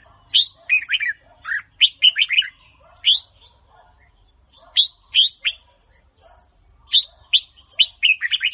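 Red-whiskered bulbul (Huế chào mào) singing: several phrases of quick, clear whistled notes that each sweep sharply downward, broken by brief pauses of about a second.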